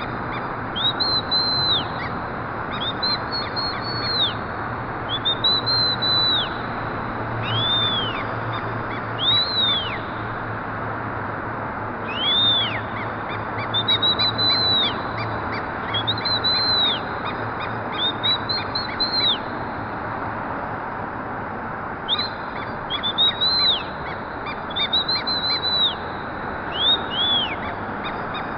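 Several parrots calling: runs of short, high-pitched calls, each rising and falling in pitch, over a steady background hiss.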